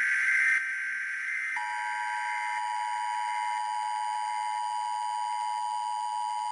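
Emergency Alert System signal: a digital header data burst ends about a second and a half in, and the steady two-tone EAS attention signal follows and holds to the end.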